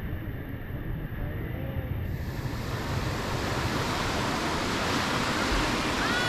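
Sea surf washing onto the beach, a steady rushing noise, with wind buffeting the microphone in a low rumble.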